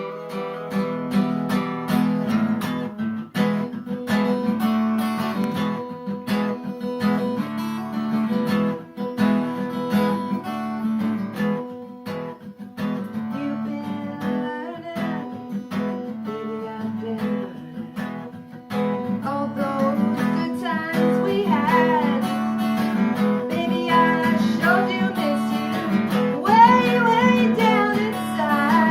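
Acoustic guitar strummed in a steady rhythm, with a singing voice joining in about two-thirds of the way through.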